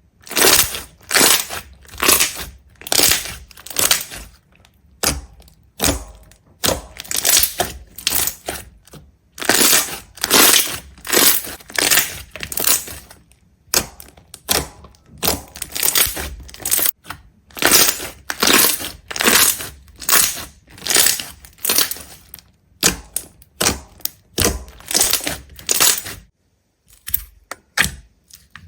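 Crisp crunching sounds repeated in quick bursts, about one or two a second, with a brief break near the end.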